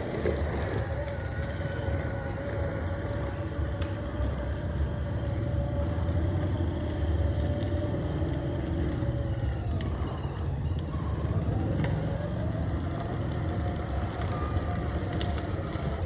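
Kids' electric motorbike running, its motor whining at a steady pitch, with a dip in pitch about ten seconds in before it rises again, over a low rumble of wheels and wind.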